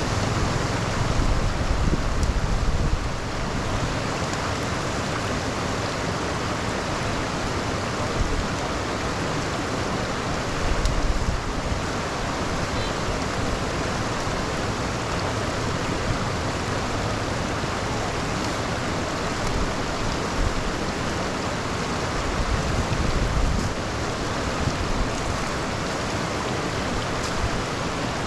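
Steady rushing of rain and running floodwater pouring into a street drain, with uneven low rumbles through it.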